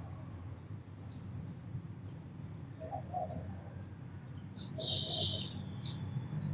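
Sparrows chirping in short, scattered high calls, with a louder, longer chirp about five seconds in, over a steady low rumble.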